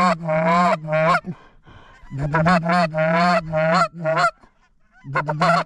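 Loud goose honks and clucks in quick runs, with two short breaks between the runs.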